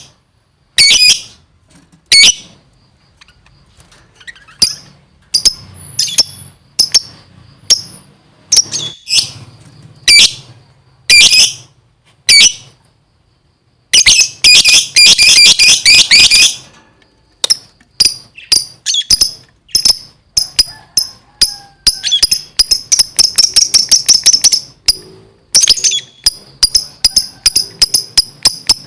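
Lovebird in full song: loud, sharp, high chirps, spaced out at first, then a dense chattering burst about halfway through, followed by quick repeated chirps that speed up into a fast, continuous run of calls.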